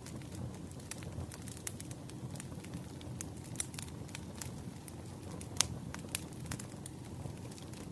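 Wood fire crackling: irregular sharp pops and snaps over a low steady rumble, with one louder pop about five and a half seconds in.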